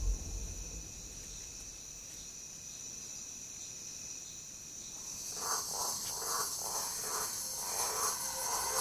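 Night-time rainforest insects chirring steadily, crickets among them. About five seconds in, a louder pulsing layer comes in, about two beats a second, over a rising hiss.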